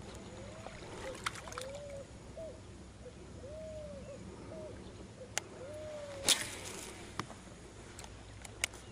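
Soft hooting calls, each rising then falling in pitch, repeated about six times over quiet water, typical of a bird. A few sharp clicks and knocks come through, the loudest about six seconds in.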